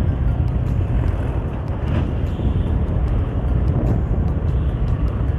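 Steady wind rumble on the microphone mixed with vehicle and road noise, heaviest in the low end.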